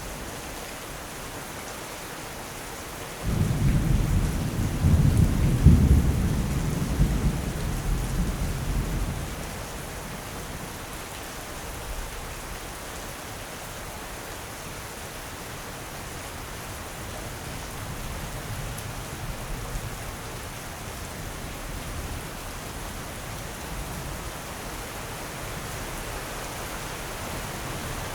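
Steady heavy rain with a thunderclap that breaks in suddenly about three seconds in, rumbles for several seconds and dies away; a fainter low rumble of distant thunder follows later.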